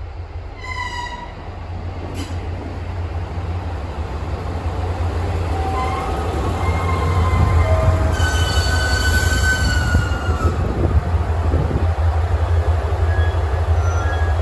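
A JR Kyushu KiHa 200 'Nanohana' diesel railcar pulling into the platform: its low engine rumble grows louder as it approaches, and its brakes squeal in wavering tones as it slows and stops, after which the engine keeps running. A brief high tone sounds about a second in.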